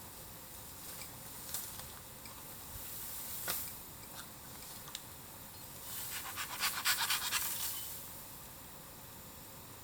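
Bamboo burning in a bonfire, crackling with a few separate sharp pops and then a quick run of crackles past the middle.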